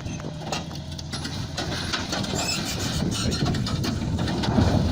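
Heavy vehicle's engine running under load, with rattling and knocking that grows louder toward the end.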